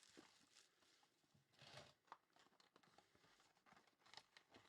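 Faint rustling and light clicks of trading-card packaging being handled, with a brief soft swish about a second and a half in and a small click just after.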